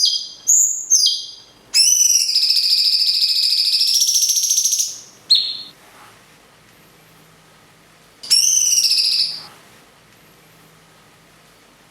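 A cucak cungkok and a lovebird calling against each other. A quick run of short, high whistled notes is followed by a long rattling chatter of about three seconds and a single short note. After a pause comes a second, shorter rattling chatter.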